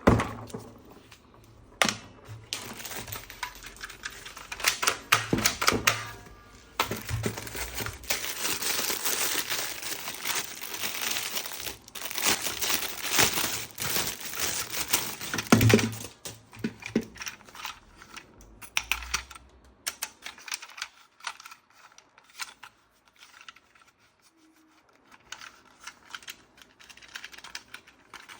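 Packaging being crinkled and torn, with many close clicks and rustles from handling, settling into sparse small clicks near the end.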